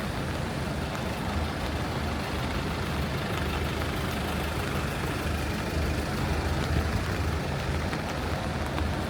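A large vehicle's engine running with a steady low rumble, over the hiss of rain and wet-road noise.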